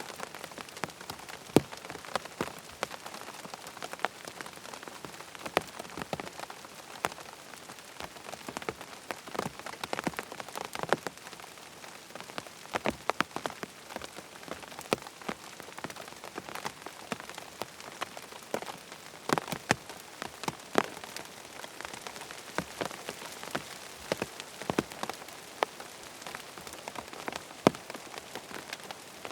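Rain falling on a tent: a steady patter with many separate, sharper drop hits landing irregularly throughout.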